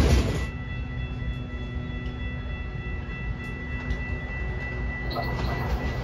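A train approaching, heard as a low rumble with a faint steady high-pitched tone over it, growing louder near the end.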